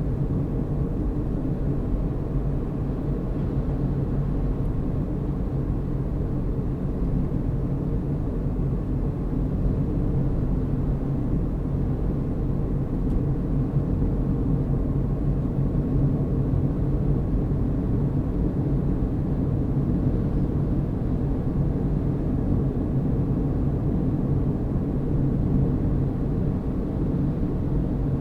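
Car being driven at a steady speed: a constant low rumble of engine and tyre noise on the road.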